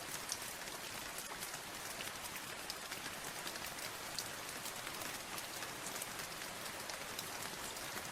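Steady rain, with many sharp individual drops pattering on a surface over an even hiss.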